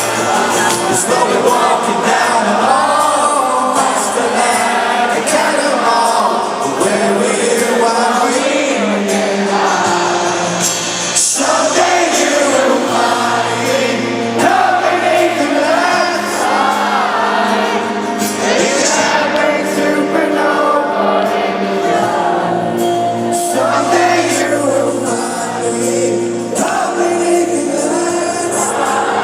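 A rock band playing live, with a sung vocal line over the band throughout.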